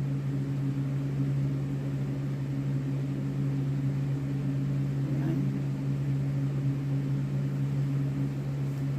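A steady, low mechanical hum with no change in pitch.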